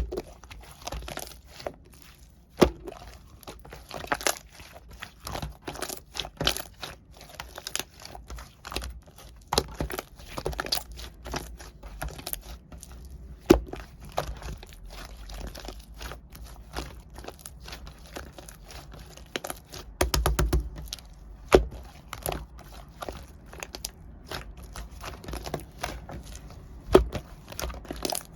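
White liquid-clay slime being squished and stretched by hand, giving irregular sticky pops, crackles and clicks. A quick run of pops comes about twenty seconds in.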